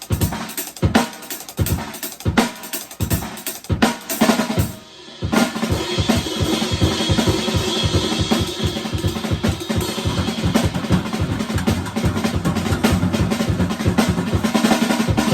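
Solo drum kit played freely: separate strokes on drums and cymbals for about five seconds, then after a short gap a dense, fast run of strokes with a steady cymbal wash over it.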